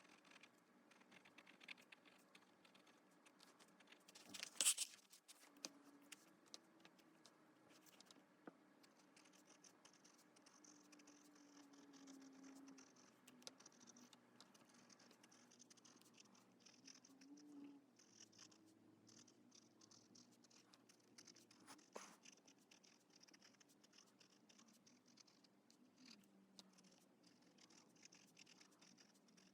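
Faint scratching of an Esterbrook Estie fountain pen's nib across paper while writing, with many small ticks of pen strokes and one louder knock about four and a half seconds in.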